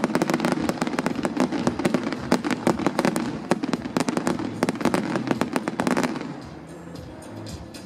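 Fireworks display: dense, rapid crackling and bangs of bursting shells, thinning out and dying away about six seconds in.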